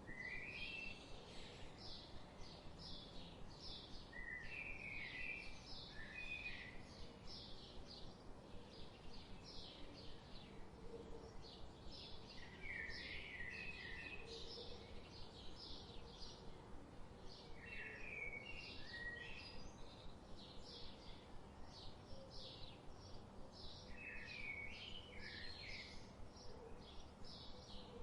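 Birdsong ambience: a steady run of short, high chirps, about two a second, with a lower warbling phrase from another bird recurring every five or six seconds over a faint steady hiss.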